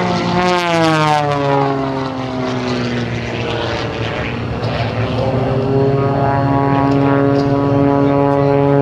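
Piston-engine aerobatic propeller planes (Extra 300S and MX2) flying overhead. The engine and propeller note drops in pitch as a plane passes during the first few seconds, then holds steady and climbs slightly again near the end.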